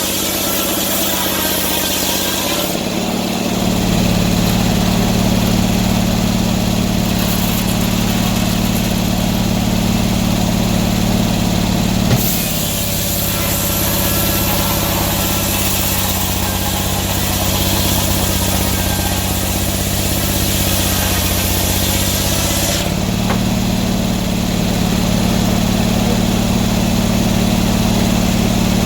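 Sawmill engine running steadily, its sound shifting about three seconds in, again near the middle, and once more later on.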